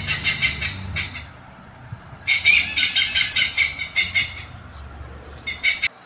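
Toco toucan calling: three bursts of rapid rattling croaks, the middle one the longest.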